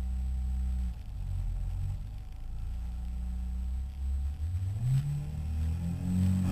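Toyota Starlet rally car's engine running while the car sits at the start line, held steady with a couple of brief dips, then revs climbing steadily over the last two seconds as it builds revs for a standing start.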